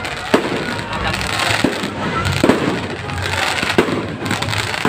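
Fireworks going off: four sharp bangs roughly a second apart over a continuous dense hiss of more bursts.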